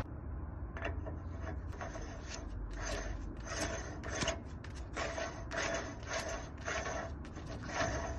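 A hand tool rasping on metal in steady back-and-forth strokes, about two a second, as in filing or cleaning up a thread on a truck axle part. A steady low rumble runs underneath.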